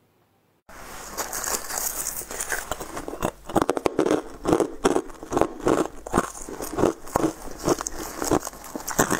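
Crunching bites and chewing of hard frozen dark pieces popped from a silicone mold: soft crackling at first, then sharp crunches about twice a second from about three seconds in.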